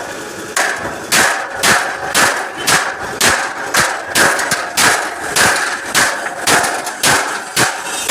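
A hammer beating out a dent in a metal truck front bumper. The blows are steady and even, about two a second, starting just after the first half-second.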